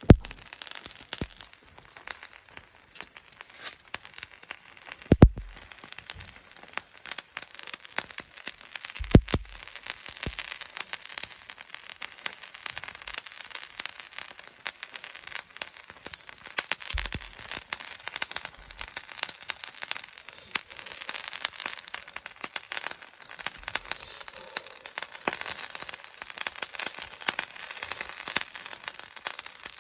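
Hairtail fish sizzling and crackling as it grills over a wood fire, with a few sharp pops, the loudest about five and nine seconds in.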